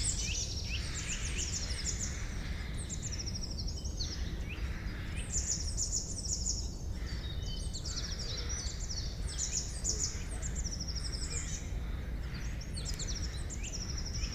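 Several small songbirds chirping and trilling, with quick high-pitched runs of repeated notes coming again and again, over a steady low background rumble.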